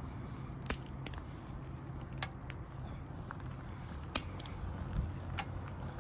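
Small fire crackling in a micro stove, with irregular sharp pops and snaps, a few of them louder, over a steady low rumble.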